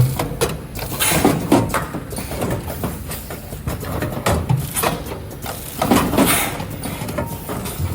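Brick-shaped vacuum packing machine running: a steady low hum under frequent mechanical clicks and knocks, with a hiss of air about a second in and again about six seconds in.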